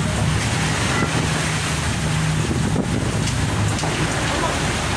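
Steady low drone of a boat's engine, mixed with heavy wind noise on the microphone and the rush of the sea.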